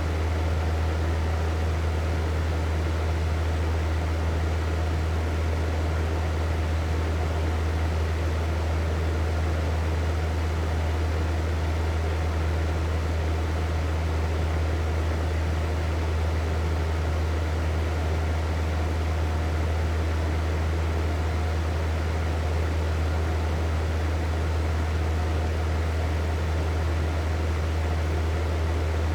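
Hair dryer running steadily: a strong low motor hum under an even rush of air, with no change in speed or level.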